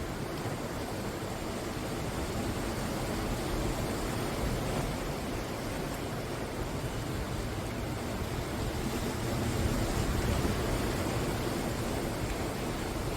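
Sea waves breaking and washing on the shore in a steady rush of surf, swelling louder about nine to ten seconds in.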